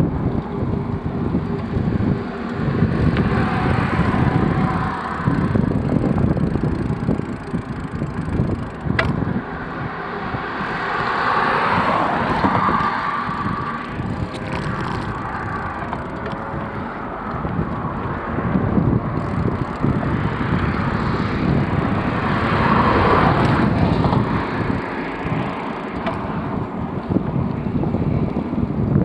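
Wind buffeting the microphone of a camera riding along on a moving bicycle: a continuous gusting rumble that rises and falls.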